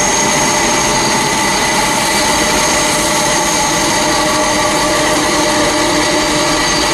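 Jet airliner's turbofan engines running with a steady roar and a high, constant whine.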